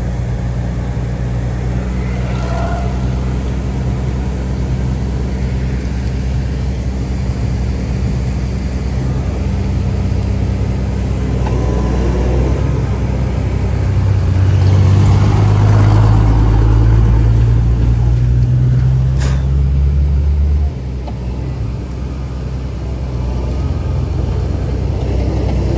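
Heavy diesel engine of earthmoving machinery running steadily. About fifteen seconds in it grows louder and its pitch rises under load, then it drops back abruptly about five seconds later. A brief sharp click comes just before the drop.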